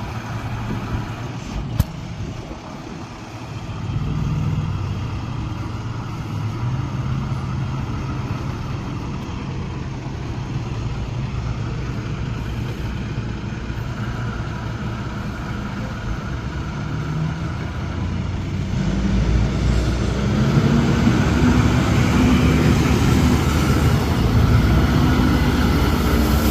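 The diesel engine of a 2007 International 4300 water truck running. It picks up speed about four seconds in and rises and grows louder again near the end. A single sharp click comes near the start.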